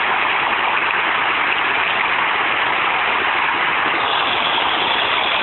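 Water rushing steadily out of a burst water service line at its curb stop box (B-box), which has been blasted out of the concrete: a loud, even rush.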